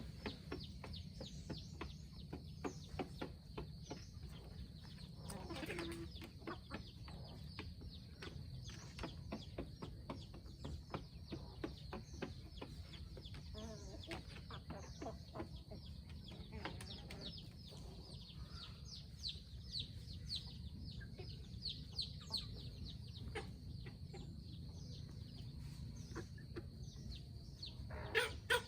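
Free-range chickens clucking, with many short high chirps and small ticks and taps throughout.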